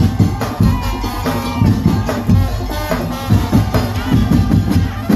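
Madurese tong-tong ensemble playing: wooden slit drums and drums beat a fast, steady rhythm under a melody line that bends and wavers in pitch.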